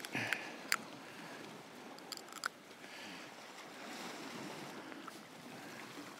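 Sea washing against shore rocks, a steady wash of water noise, with a few short sharp clicks near the start and again about two and a half seconds in.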